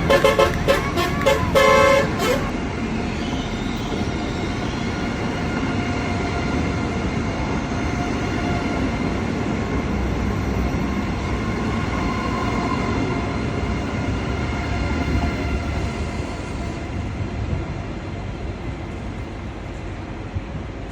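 Strasbourg tram sounding a rapid series of short, pitched toots on its horn, which stop about two seconds in. Then comes the steady rolling rumble of the tram with a faint whine, easing off near the end.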